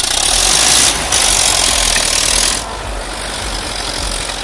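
Heavy construction machine's engine running loudly, with dense noise over a low rumble; the level falls about two and a half seconds in.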